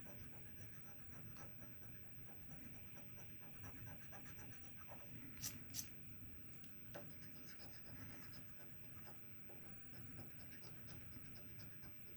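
Scratch-off lottery ticket being scratched in quick, faint scraping strokes, with two sharper clicks about five and a half seconds in.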